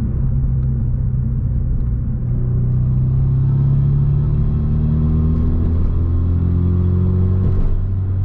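2017 Hyundai Veloster Turbo's turbocharged 1.6-litre four-cylinder engine and exhaust pulling steadily on the road, heard from inside the cabin as a low drone whose pitch drifts slowly. Near the end the note changes abruptly.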